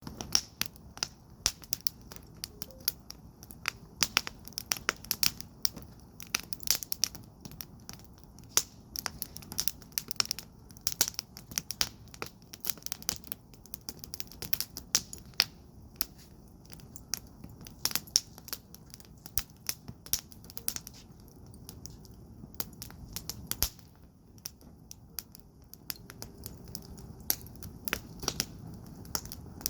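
Fire burning in a firepit, crackling with many irregular sharp pops over a low, steady rumble of flame.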